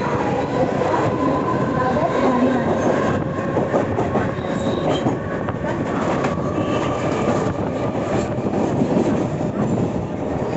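Mumbai suburban electric local train running out of a station, heard from inside the carriage by the open door: a steady rumble of wheels on rail with the clickety-clack of the rail joints. A thin whine fades out about a second in.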